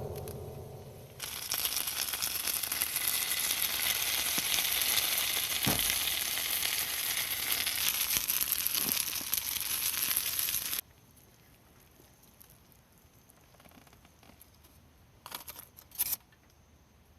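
Food sizzling hard over a fire, a dense hiss with scattered crackles, starting abruptly about a second in and cutting off suddenly after about ten seconds. After that there are only a few faint clicks.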